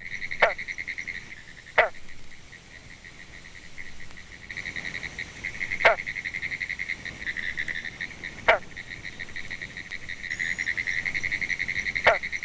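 Green frogs giving single notes of their territorial call: five short notes, each falling sharply in pitch, at irregular intervals of one to four seconds. A steady, high, rapidly pulsing trill runs behind them.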